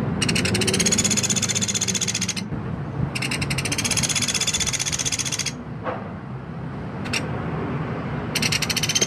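Woodpecker calling in rapid rattling trains of evenly repeated high notes, three trains of about two seconds each, with single short notes in the gap between the second and third.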